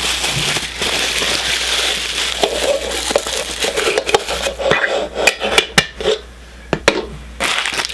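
Hands handling Funko soda packaging: plastic rustling and crinkling, then a run of light clicks and knocks as items are picked up and set down.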